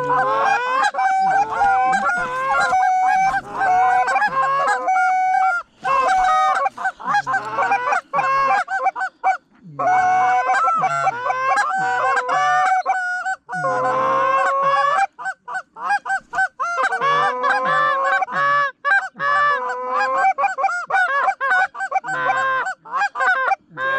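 Many goose honks and clucks overlapping in a rapid, continuous chorus, with brief pauses about five, nine and fourteen seconds in.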